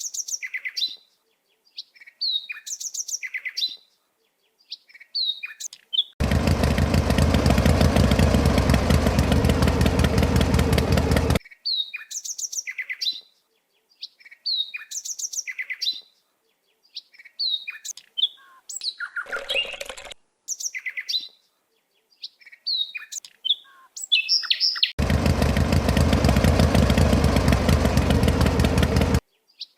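Birds chirping in short, regularly repeated phrases, broken twice by an engine running in a fast, even pulse for about five and four seconds, each stretch starting and stopping abruptly.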